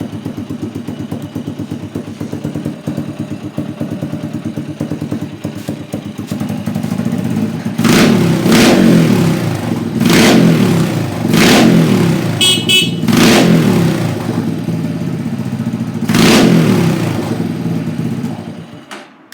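Honda FTR223's air-cooled single-cylinder four-stroke engine idling, then revved in five short throttle blips, with a brief beep of the horn between the third and fourth blip. The engine is switched off near the end and stops.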